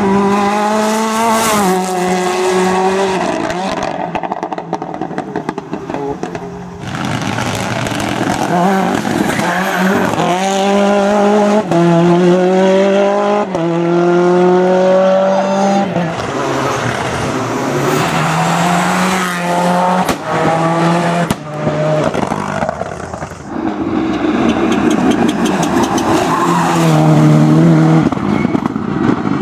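Ford Escort Cosworth rally car's turbocharged four-cylinder engine at full throttle, revving hard up through the gears: the pitch climbs, drops at each upshift and climbs again, over and over, with several separate passes following one another.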